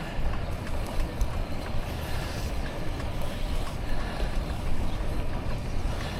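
Wind buffeting a neck-mounted action camera's microphone while riding a bicycle. It makes a steady, gusting rumble, with a few faint ticks.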